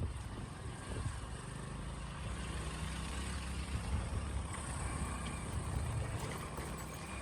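Motorcycle engine running while riding in traffic, with road and wind noise.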